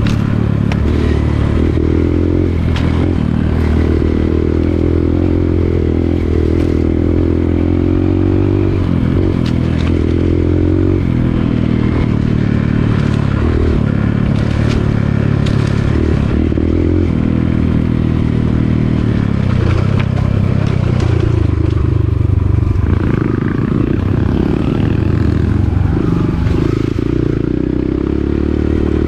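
Dirt bike engine running as the bike is ridden along a trail, its note rising and falling with the throttle, with scattered clattering knocks from the bike over rough ground.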